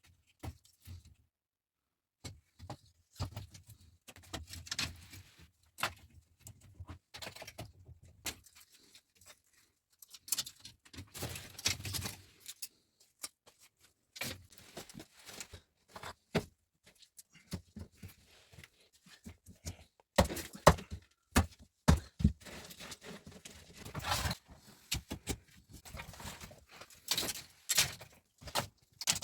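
Irregular knocks, taps and clicks of objects being handled, with short gaps between them and a denser run of sharp clicks in the last third.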